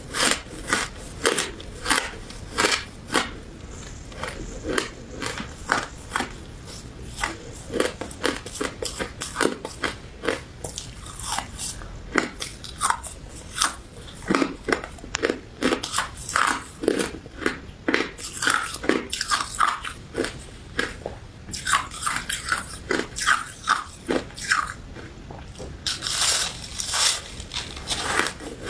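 Close-miked biting and chewing of a crunchy crystal ice and citrus jelly dessert. It is a steady run of sharp crunches, several a second, with a denser burst of louder crunches near the end.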